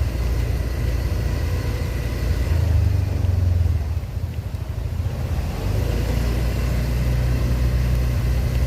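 Motorbike engine running as it is ridden along, with a steady low rumble that eases briefly about halfway through.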